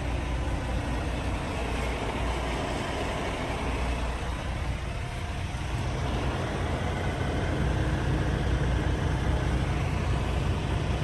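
Diesel semi-truck engines idling steadily, a low drone that gets a little louder about halfway through.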